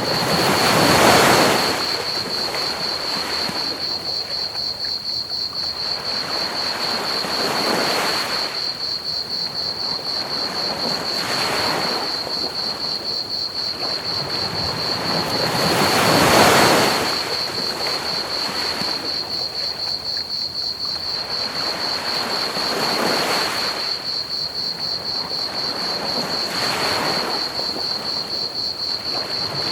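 Ocean waves breaking on a beach in slow swells, the biggest about a second in and again just past halfway, with a steady high cricket chorus pulsing throughout. Under it all lies a constant hiss of pink noise.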